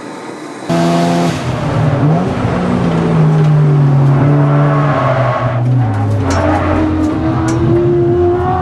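Turbocharged Mazda RX-7 FD3S's rotary engine heard from inside the cabin on track: a short, quieter trackside car sound first, then the engine note falls as the car slows and climbs steadily as it accelerates again.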